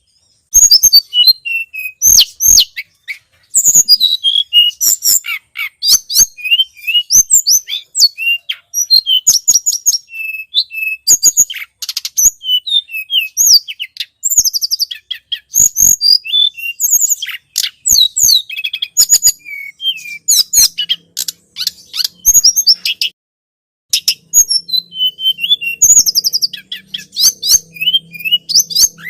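Song of the tledekan gunung, a small songbird, played as a bird-trapping lure: rapid, high chirps and twittering trills in quick bursts, with a short pause about 23 seconds in.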